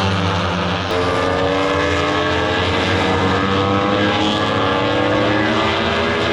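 MotoGP racing motorcycles' four-cylinder engines running at high revs, several at once, their pitch climbing steadily as they accelerate. A new rising engine note cuts in sharply about a second in.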